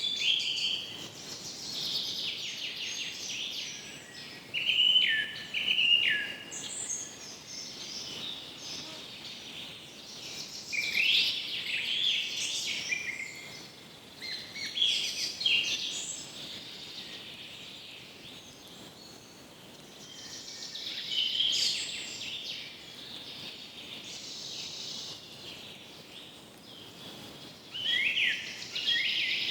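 Several birds calling and chirping in overlapping short calls and trills, some with quick falling notes, over a steady background hiss of forest ambience.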